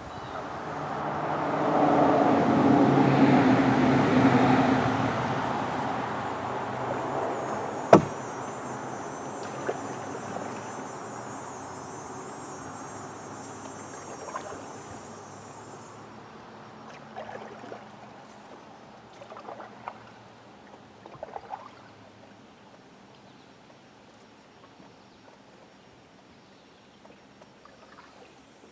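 A motor vehicle passing on the road above the culvert: an engine sound that swells over the first couple of seconds and then slowly fades away. A single sharp knock comes about eight seconds in, followed by faint scattered knocks and drips.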